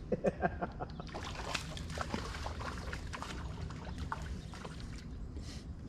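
Water splashing and dribbling in short, irregular bursts as a hooked fish is played and brought in at the side of the boat, over a steady low rumble.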